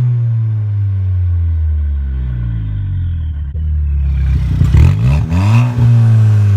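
2017 Ford Fiesta ST's turbocharged 1.6-litre four-cylinder running loud with its exhaust dumped straight out of the downpipe, no cat-back fitted. The revs sag slowly at first, then about four and a half seconds in the engine is blipped a couple of times and held at a higher steady rev.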